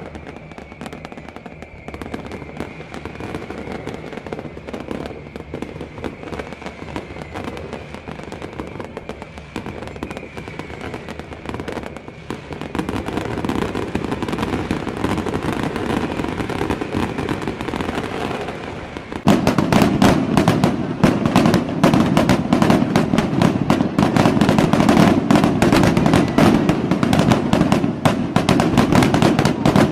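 Fireworks going off in a dense, continuous barrage of crackling bangs and pops, growing louder about 12 seconds in and jumping sharply louder about 19 seconds in.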